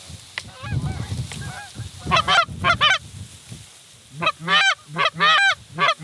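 Goose honking: soft calls at first, then from about two seconds in a run of loud, rising-and-falling honks in quick succession, and another run near the end. A low rumble sits beneath the first half.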